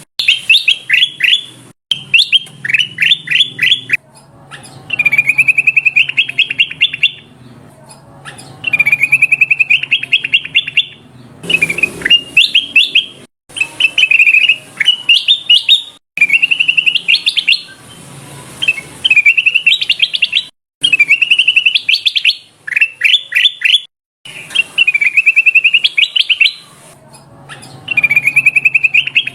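Kutilang emas (a bulbul) calling in repeated loud phrases of rapid chattering notes, each phrase lasting a second or two with short gaps between. Some phrases rise at the end. This is a bird-lure recording.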